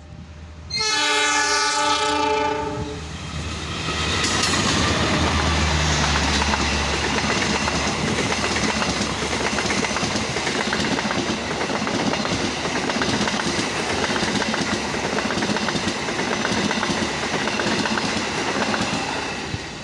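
A CC 201 diesel-electric locomotive (GE U18C) sounds its multi-tone horn for about two seconds. The passenger train then passes close by with a steady loud rush of wheels rolling over the rails, and the locomotive's low engine rumble is heard early in the pass.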